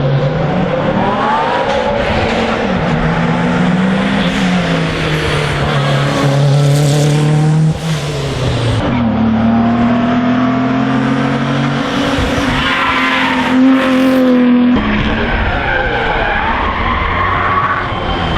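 Historic racing car engine at full throttle on a hillclimb, its pitch climbing and then dropping sharply at gear changes, about twice.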